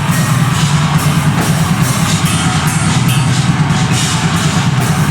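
A deathgrind band playing loud and fast: heavily distorted guitars and bass over rapid, evenly repeating drum strokes.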